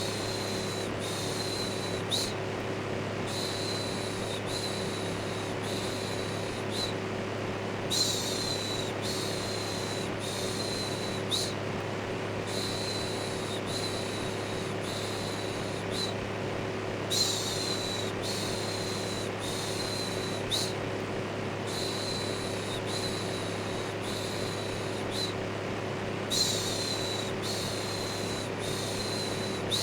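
Electric fan running with a steady hum and whoosh, overlaid with a looped 'shhh' shushing sound. The shushes come about once a second in runs of three or four, each run separated by a brief pause.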